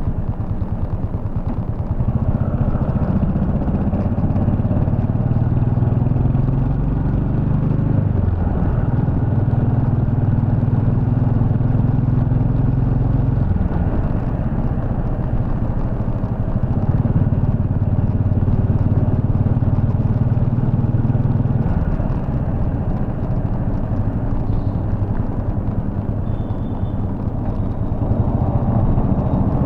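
Royal Enfield Bullet 350's single-cylinder engine running under way. Its revs climb and drop sharply several times as the bike accelerates and shifts gears, then ease off and pick up again near the end.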